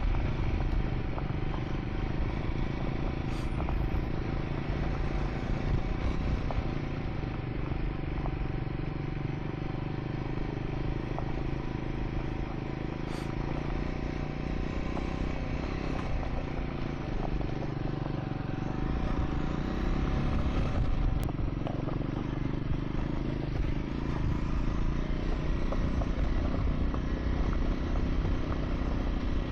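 Triumph Scrambler 400 X single-cylinder engine running steadily on the move over a dirt track, with light clatter and scraping from the loose surface.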